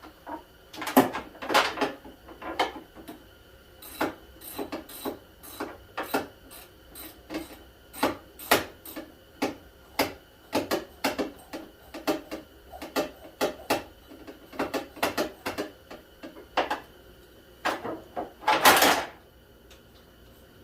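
Hand tools clicking and knocking against engine-bay parts while working to free a seized upper radiator hose: irregular sharp clicks, about one or two a second, with a longer, louder noise near the end.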